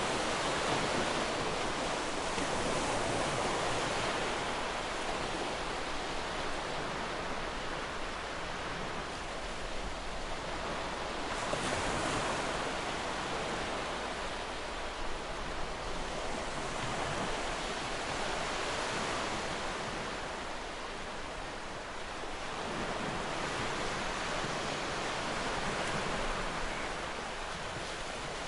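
Ocean surf breaking on a beach, a steady wash of waves that swells and eases every few seconds, with one stronger surge about twelve seconds in.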